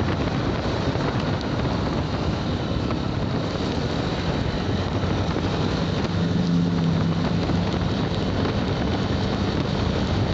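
Motorcycle running at riding speed under a steady rush of wind on the microphone. The engine note is a little stronger for a couple of seconds past the middle.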